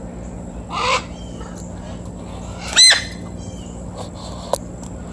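A bird squawks twice: a short harsh call about a second in, then a louder call that rises in pitch near the three-second mark. A single sharp click follows shortly before the end.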